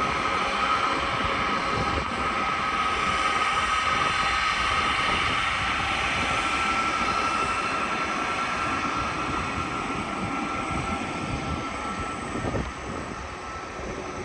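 Jet airliner on landing approach, its engines running as a broad rumble with a steady high whine that eases off near the end.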